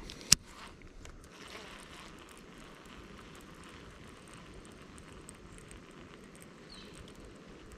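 A single sharp click or knock about a third of a second in, then a steady faint rush of outdoor water and wind noise with a few light ticks.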